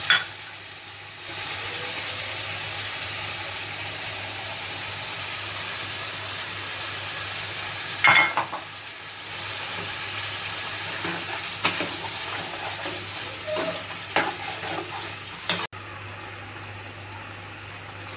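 Chicken and potatoes sizzling in a wok, a steady frying hiss. There is a loud splash-like clatter about eight seconds in as chopped tomato goes in, then several knocks and scrapes of a spoon stirring against the pan.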